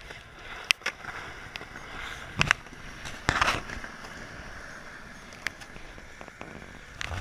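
Skateboard wheels rolling on wet pavement with a steady hiss, broken by several sharp clacks of the board, the loudest about three and a half seconds in.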